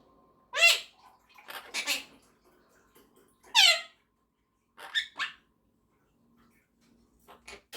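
Quaker parrot (monk parakeet) giving a string of short, separate calls and chirps, one of them sliding down in pitch, with a couple of faint clicks near the end.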